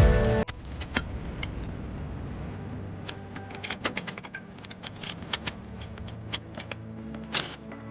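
Background music cuts off about half a second in. After it, irregular light clicks and clinks of hand tools on metal parts, over a faint low hum.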